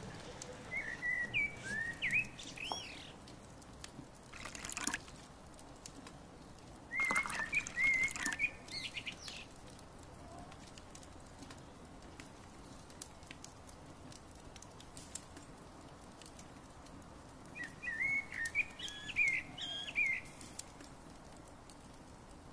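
Bird chirping in three short bouts of quick, warbling chirps, with a couple of brief rushing noises between them.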